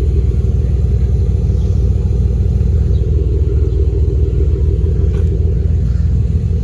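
Ford Mondeo ST220's 3.0 V6 idling steadily through an aftermarket TIGS exhaust, a deep, even rumble with no revs.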